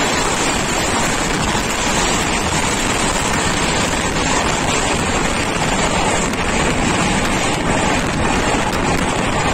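Loud, steady rush of wind and wheel-on-rail noise from an express train running at speed, heard from on board, while another train passes on the adjacent track.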